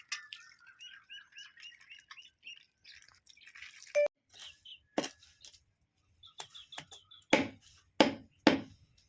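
A bird chirping in a quick run of short repeated notes, about three a second, followed by several sharp knocks and clatters from handling, the loudest near the end.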